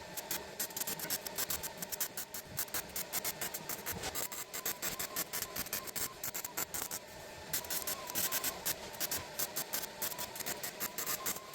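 MIG welder arc crackling steadily while a bead is laid on sheet-metal floor panels, a continuous dense sputtering with short breaks.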